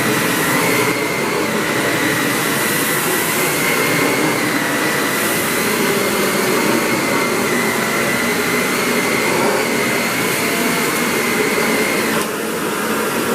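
Samsung VU4000 vacuum cleaner running steadily with a high whine over its airflow rush while vacuuming up spilled cat litter. About twelve seconds in the whine stops and the sound drops as the motor is switched off and begins to spin down.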